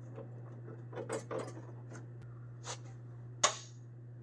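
Faint clicks and rustles of small parts and tools being handled, with one sharper click about three and a half seconds in, over a steady low hum.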